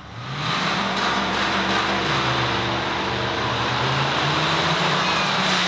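Supercharged, cammed V8 of a 2006 GMC Sierra pickup running, its exhaust pitch stepping up and down as the engine speed changes.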